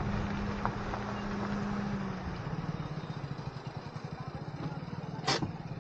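Honda Amaze sedan's engine running as the car crawls over a rocky trail, with small knocks from the rough ground. The engine note drops about two seconds in, and a single sharp knock comes near the end.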